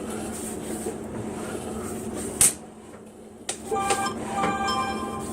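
Sewer inspection camera push cable being fed down a drain line: a steady rattling rumble, a sharp click about two and a half seconds in, and from about three and a half seconds a high squealing whine that keeps stopping and starting.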